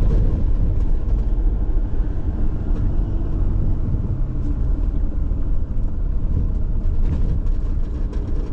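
A car running, heard from inside the cabin: a steady low rumble of engine and road noise.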